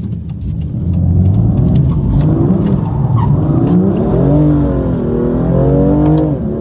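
BMW M2 Competition's S55 twin-turbo inline-six engine revving up and down hard under load, with tyre noise, as the car drifts.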